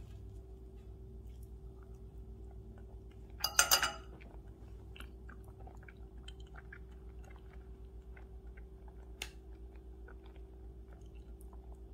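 Close-miked chewing of soft chocolate mousse cake, with many small wet mouth clicks. About three and a half seconds in comes a short, loud clatter, the metal fork set down on the ceramic plate. A steady low hum runs underneath.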